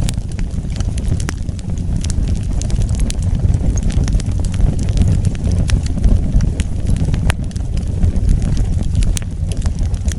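Wood fire burning with a steady low rumble of flames and frequent sharp pops and crackles from the burning wood.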